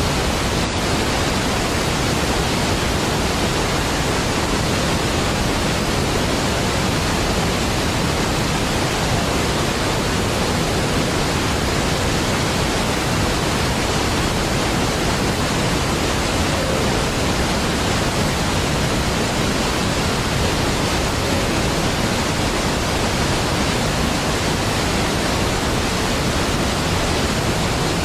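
Large waterfall: a deep, steady rush of falling water with no separate splashes, unchanging in level throughout.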